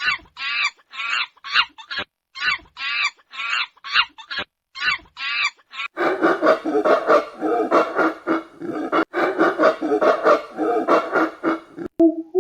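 Poultry calling: a run of short calls repeated about twice a second, then from about halfway a denser stretch of many overlapping calls, as from a flock.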